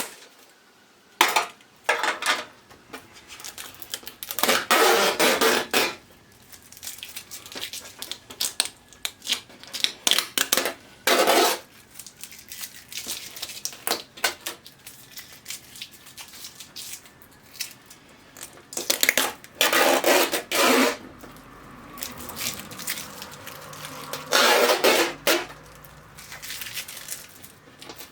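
Peel-and-stick LED backlight strips of an LCD TV being pried up and pulled off their adhesive. Clinks and light clatter of the strips, with four scraping, peeling spells of a second or two each.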